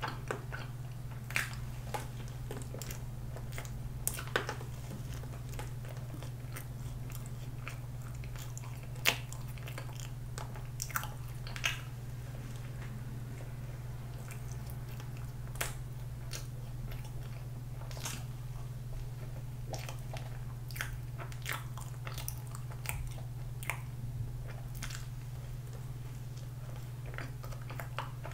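Biting and chewing of a soft, cream-filled pandoro bun dusted with powdered sugar: irregular sharp mouth smacks and clicks scattered throughout, over a steady low hum.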